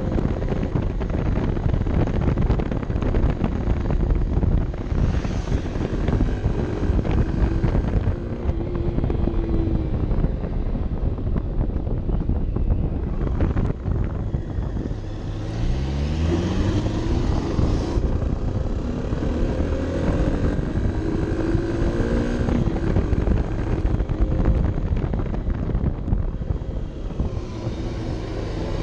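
Honda CB 125 F's single-cylinder four-stroke engine running under way, recorded onboard with wind rushing over the camera microphone. About halfway through, the engine note rises as it revs up, then holds a steadier pitch.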